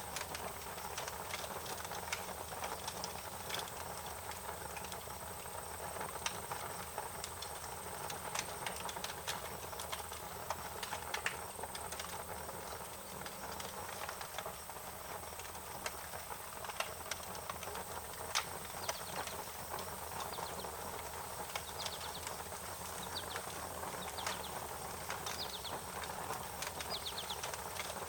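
Wood fire crackling: irregular sharp pops and snaps over a steady hiss. Faint rapid chirping comes in over the last several seconds.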